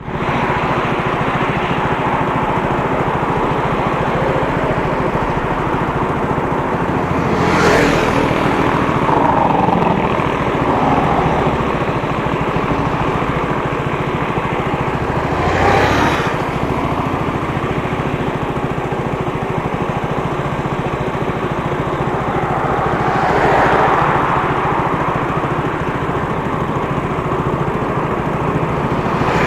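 Motorcycle engine running steadily with road and wind noise while riding. It swells louder briefly three times, about eight seconds apart.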